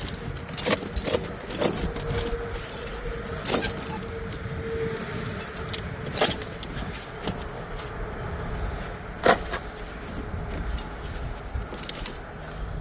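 Steel tire chain links jangling and clanking as the chain is worked onto a loader's rear tire, with a few sharp metallic clanks at irregular intervals.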